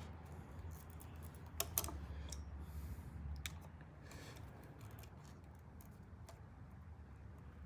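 Scattered light clicks and taps of small hand tools and parts being handled, with two sharper clicks close together about a second and a half in, over a steady low hum.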